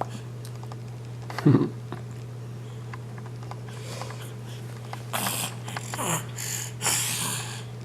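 A baby's short grunt about a second and a half in, then a string of breathy puffs and sniffs near the end, over a steady low hum.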